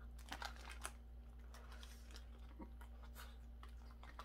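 A man biting into and chewing a hamburger, faint chewing clicks clustered in the first second and scattered after, over a steady low hum.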